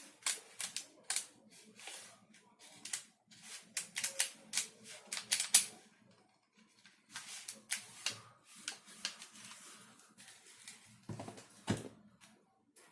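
Irregular clicking and clattering of hard plastic parts of a 3D-printed airsoft gun kit being handled and fitted together. The clicks pause briefly about halfway, and two heavier, duller knocks come near the end.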